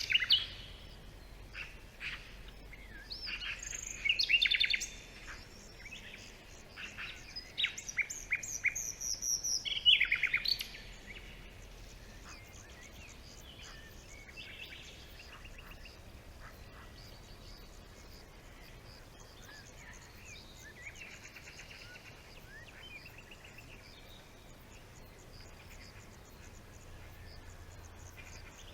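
Several birds calling and singing in a forest, with a run of loud chirps and trills in the first ten seconds or so, then only faint, scattered calls over a steady background hiss.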